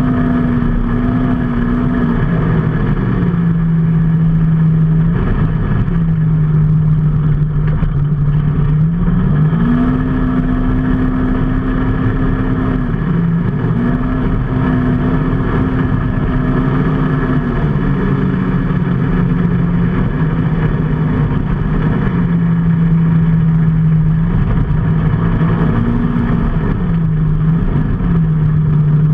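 Engine of a moving road vehicle under way, its pitch holding steady for a few seconds at a time and then stepping up or down as the revs change, over a constant rush of road and wind noise.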